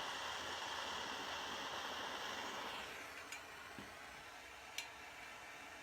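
A heating tool hisses steadily on a stuck, Loctite-bonded wheel fastener, then cuts off about three seconds in. A couple of light, sharp metallic ticks follow.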